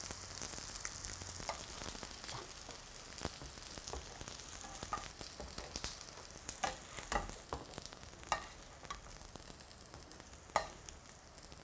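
Egg-dipped tofu patties frying in a little oil in a pan: a steady high sizzle, with a few sharp clicks scattered through.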